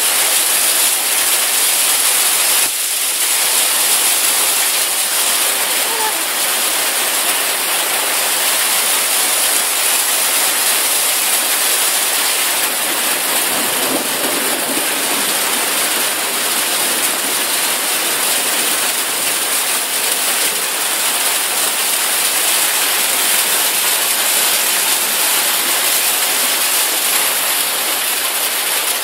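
Heavy downpour mixed with small hail: a loud, steady hiss of rain beating on a corrugated roof.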